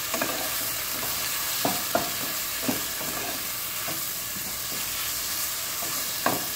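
Okra slices sizzling in olive oil in a nonstick frying pan as a spatula stirs them, with the spatula knocking lightly against the pan now and then.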